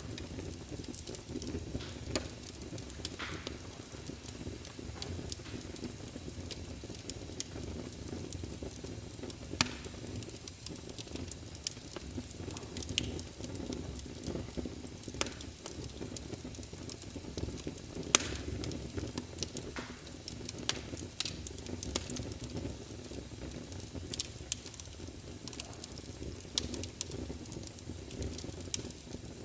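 Wood fire burning in a fireplace, crackling with irregular sharp pops over a steady low rumble and hiss.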